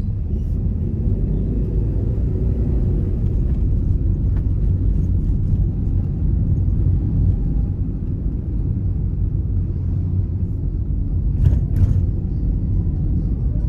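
Car driving along, a steady low rumble of engine and road noise, with two short clicks near the end.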